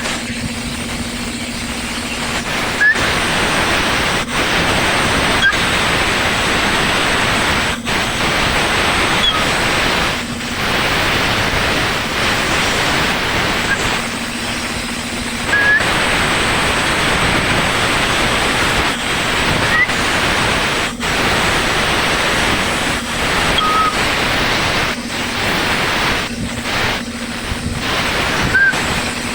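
A Sany grader's diesel engine running, heard as a loud, steady rushing noise with a faint hum that comes and goes.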